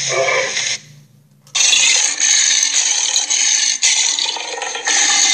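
Allosaurus creature sound effects: a call breaks off about a second in, then after a short gap a long, harsh, raspy growl starts.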